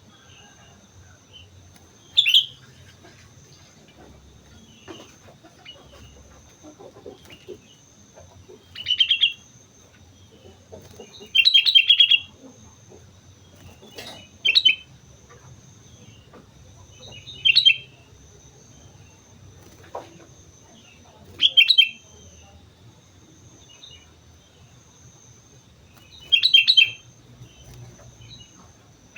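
Sooty-headed bulbul singing in lively form, with seven short, loud whistled phrases a few seconds apart; one around the middle is longer. A faint steady high-pitched whine runs underneath.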